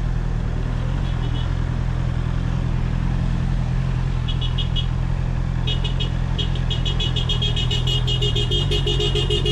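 Honda CBR650R's inline-four engine running steadily at low revs. From about four seconds in, a rapid high-pitched electronic beeping joins it and grows more continuous.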